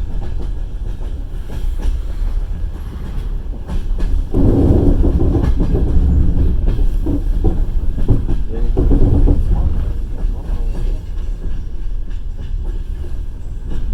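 Passenger train running along the rails, heard from inside the carriage: a steady low rumble with the clatter of wheels over rail joints. It grows louder about four seconds in.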